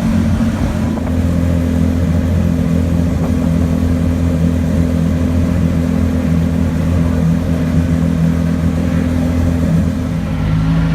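Race car engine running at a steady low idle, its pitch holding level with no revving.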